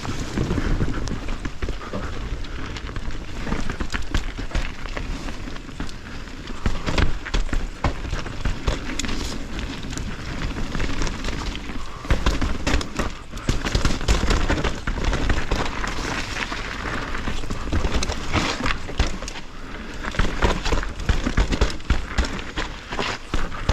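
Mountain bike descending a wet, rooty singletrack: constant tyre and trail noise with frequent sharp knocks and rattles as the bike hits roots, all heard through a body-mounted action camera.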